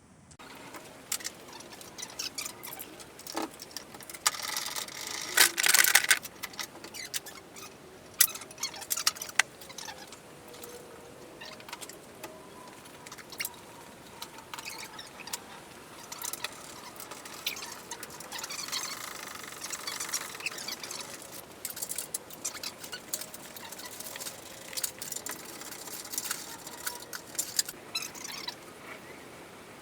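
Mechanic's hand tools and metal parts clinking, clicking and scraping in an irregular series, with a few faint squeaks, as fittings on top of an engine are undone.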